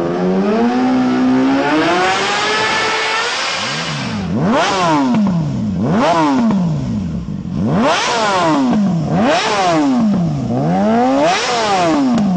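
Superbike engine idling, then revved: the pitch climbs over the first few seconds, followed by five quick blips of the throttle, each rising sharply and falling back.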